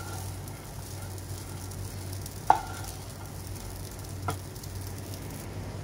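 Tiwul fried rice with sliced sausage sizzling in a nonstick wok as a wooden spatula stirs and turns it. Two sharp knocks come about two and a half and four seconds in.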